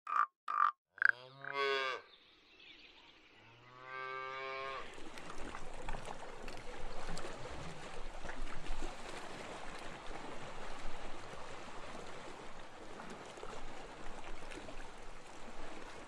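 A frog croaking: three short croaks in the first second, then two longer, deeper calls about two seconds apart. From about five seconds in, a steady hiss with faint crackling: underwater ambience.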